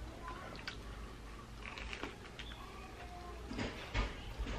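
Faint, irregular wet clicks and small crunches of someone chewing a mouthful of fried chicken sandwich, over a low steady hum.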